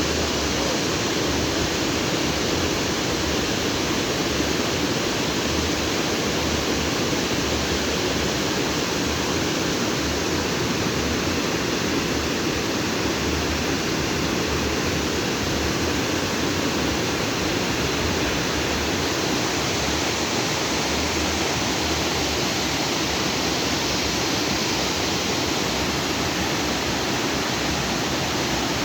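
Water from the lagoon's outflow stream rushing freely over rocks: a steady, unbroken rush.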